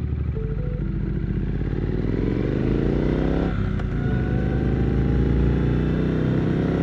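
Triumph Scrambler 900's parallel-twin engine accelerating, its pitch rising steadily, then dropping sharply at a gear change about three and a half seconds in before pulling again in the next gear.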